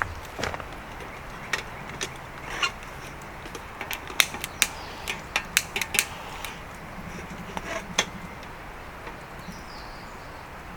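Irregular sharp clicks and knocks, coming in quick clusters around the middle, over a steady outdoor background.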